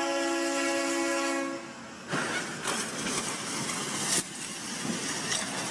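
Train air horn held on one steady chord, cutting off about one and a half seconds in. Then comes a sudden noisy clatter with sharp bangs at about two and four seconds in.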